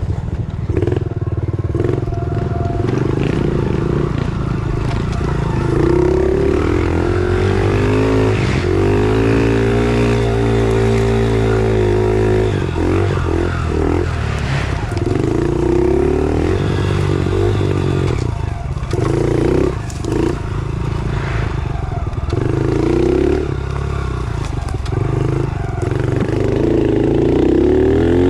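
110cc pit bike engine being ridden, its pitch rising and falling again and again as the throttle is opened and closed, with a few brief dips where it is backed off.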